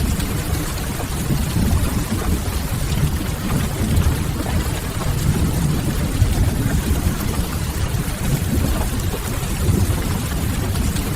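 Steady rain ambience: an even rushing hiss of rain over a strong, continuous deep rumble, with no distinct events.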